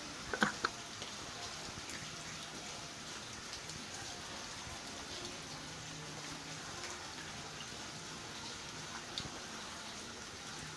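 Steady rain falling, an even hiss, with a few short sharp clicks less than a second in and another about nine seconds in.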